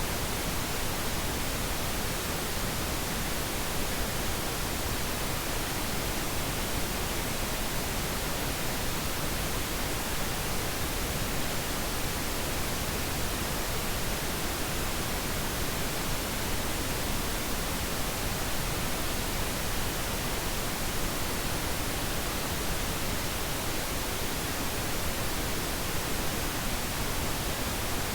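Steady synthetic pink noise: an even, unchanging hiss spread across all pitches, played as a sleep aid.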